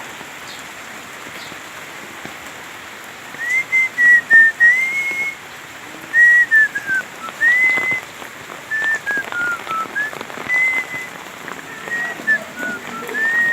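A person whistling a slow tune in held, gliding notes, over steady rain falling on surfaces. The whistling starts about three seconds in and is louder than the rain.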